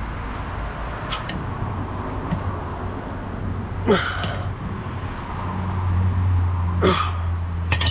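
A steady low mechanical hum that grows louder in the second half, with a few sharp clicks and knocks.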